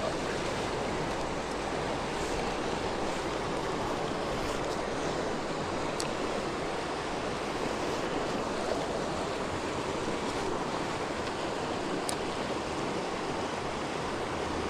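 Steady rush of creek water flowing over rocks, with two faint small ticks about six seconds apart.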